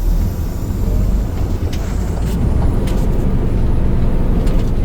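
Cummins ISM 11 inline-six diesel of a Kenworth T800 truck running under light load as the truck pulls forward, a steady low engine sound with a few light clicks.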